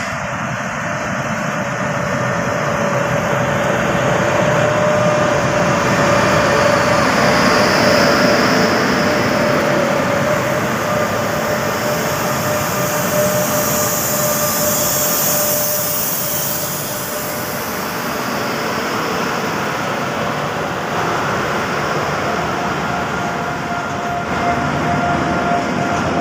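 Freight train hauled by two Indian Railways WAG-9 electric locomotives passing close by, with steady rolling and machinery noise and a thin steady whine. It is loudest for a few seconds as the locomotives go by, then the open hopper wagons roll past.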